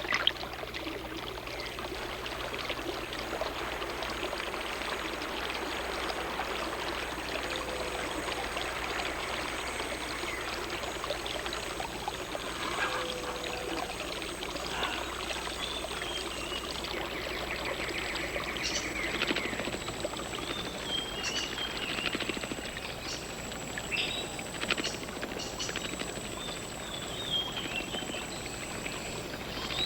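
Steady rush of running water, with short high chirping calls in the second half.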